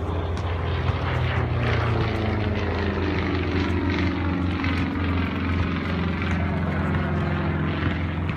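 Aircraft flying past, its engine drone falling steadily in pitch as it goes by.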